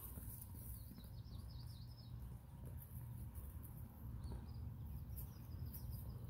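A small songbird chirping: a quick run of about six high notes about half a second in, then a few single chirps later. Under it runs a low steady rumble of outdoor noise.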